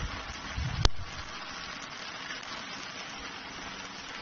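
Steady hiss of rain falling on roofs and floodwater, with a few low bumps on the microphone and a single sharp click just under a second in.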